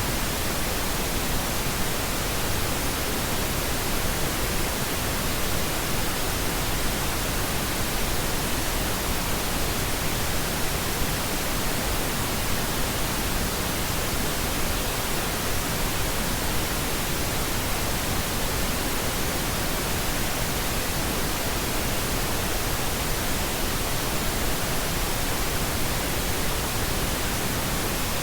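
Steady pink noise: an even, unchanging hiss spread across all pitches, without any change or event.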